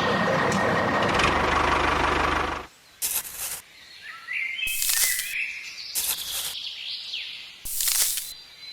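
A steady rasping mechanical noise with a low buzz cuts off suddenly under three seconds in. Birds then chirp, with short bursts of high hiss in between.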